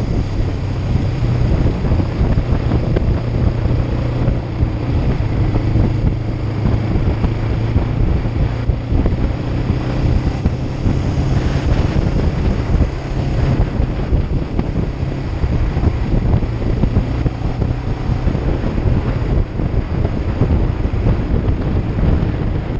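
Kawasaki Ninja 500 (EX500) parallel-twin engine running steadily while riding, under heavy wind buffeting on the helmet-mounted camera's microphone.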